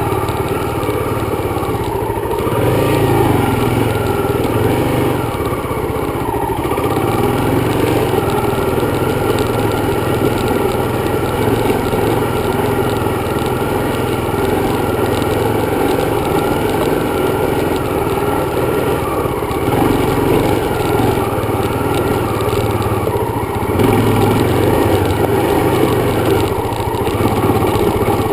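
Dirt bike engine running while riding, its pitch rising and falling several times as the throttle is opened and eased off.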